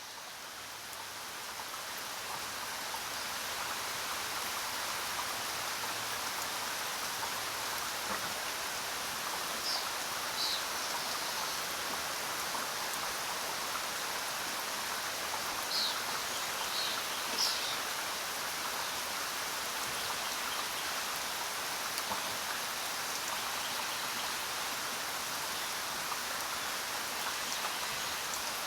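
Steady jungle rain, a dense even hiss that swells in over the first few seconds. A few short, high bird chirps come through it around the middle.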